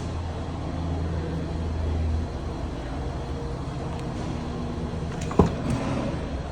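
Car engine running with a steady low hum that drops in level about two seconds in. A single sharp knock about five seconds in is the loudest sound.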